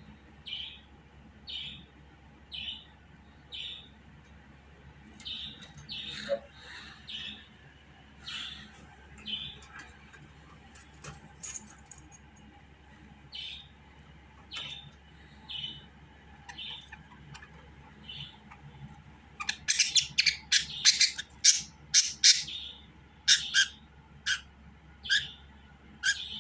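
Budgerigar calling: short chirps about once a second, then a louder run of quick chattering calls about three-quarters of the way through, before single chirps resume.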